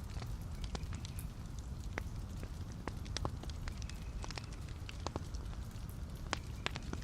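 Wood fire burning in a fireplace: a steady low rumble of flames with irregular sharp crackles and pops from the burning logs, a few each second.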